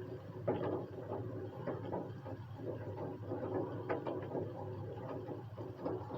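Raindrops falling, heard as irregular sharp taps and drips over a steady background of rain.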